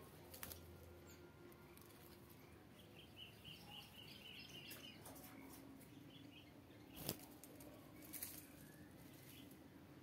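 Small aviary birds giving faint, quick runs of short high chirps, with a few sharp brief clicks or taps; the loudest comes about seven seconds in.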